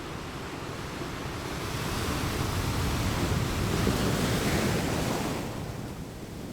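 Sea waves washing in, swelling to a peak about four seconds in and then easing off, with wind buffeting the microphone.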